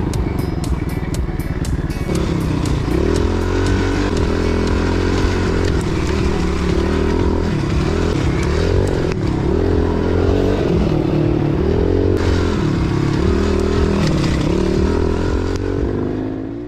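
Pit bike engine revving up and down repeatedly while being ridden on a trail, fading out at the end.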